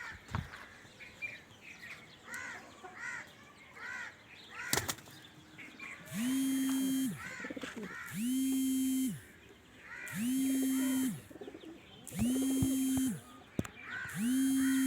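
Thin, squeaky chirps repeating about twice a second, typical of a pigeon squab begging. From about six seconds in these give way to a loud, flat, buzzing tone about a second long that repeats every two seconds.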